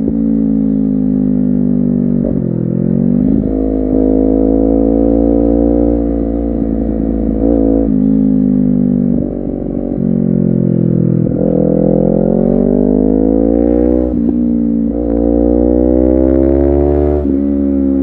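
Honda CBR250RR two-cylinder engine under way, the revs climbing and then dropping sharply at gear changes several times, with a stretch of falling revs as it eases off around the middle.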